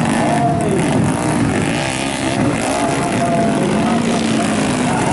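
Modified underbone motorcycle engines running at race pace, their pitch rising and falling as they rev.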